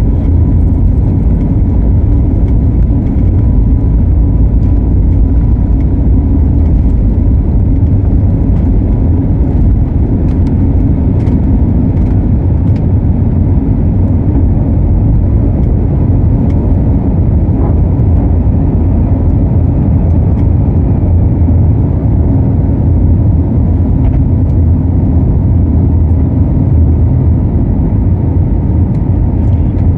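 Airliner takeoff heard from inside the cabin: a loud, steady low rumble of engines and rushing air, with a faint steady whine above it.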